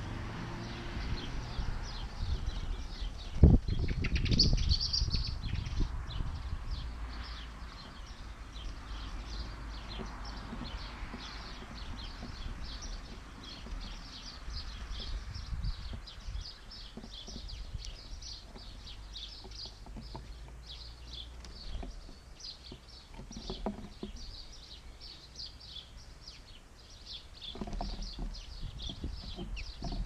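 Small garden birds chirping and twittering in rapid short calls, with one sharp knock about three and a half seconds in. A low rumble sits under the first few seconds and returns near the end.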